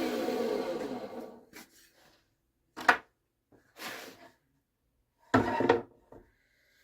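Table saw motor and blade winding down after switch-off, the pitch falling and fading out within about a second and a half. Then come three short wooden knocks and clatters as the workpiece and crosscut sled are handled.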